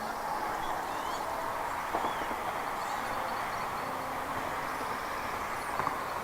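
Steady outdoor background hiss with faint, high bird chirps now and then, including a short rapid series of notes near the middle.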